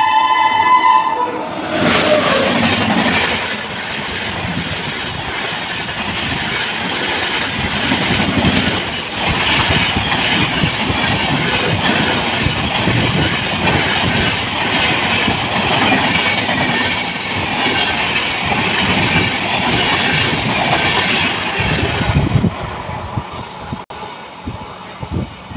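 A locomotive horn sounds and cuts off about a second in, then a high-speed passenger train of LHB coaches passes close by: a loud, steady rush of wheel and rail noise with clickety-clack over the rail joints. Near the end the noise drops to the lower, uneven rumble of a train running away down the line.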